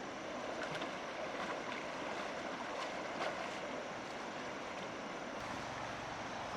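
Steady rush of moving water, with a few faint clicks and knocks.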